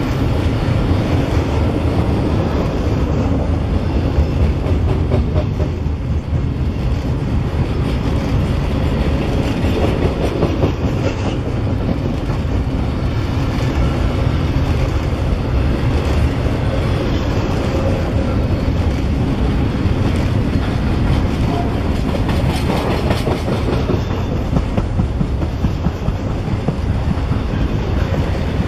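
Double-stack intermodal freight train's well cars rolling past close by: steady heavy noise of steel wheels running on the rails, with no let-up as car after car goes by.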